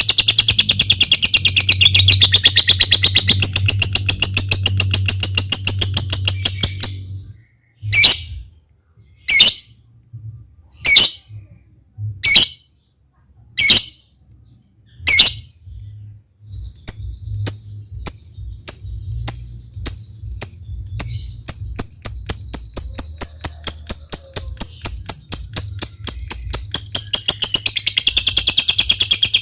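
Lovebird calling: a long, fast chattering trill that breaks off about seven seconds in into six single loud calls about one and a half seconds apart, then quick ticking notes that speed up and run back into a long trill near the end. A steady low hum lies underneath.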